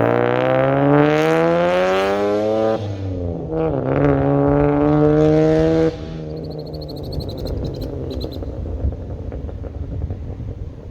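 Turbocharged 2.7 L V6 of a 2005 Hyundai Tiburon pulling hard under full throttle. Its pitch rises, drops at a gear change near 3 seconds, and climbs again until the throttle is lifted about 6 seconds in. After that there is only road and tyre rumble, with a brief faint high chatter.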